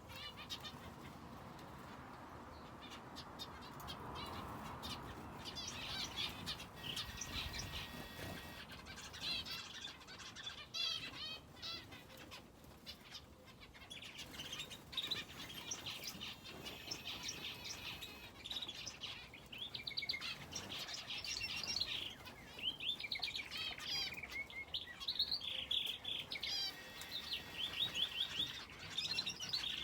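Finches and a canary in an aviary chirping and twittering, with quick trills and short wing flutters; the calls grow busier over the second half.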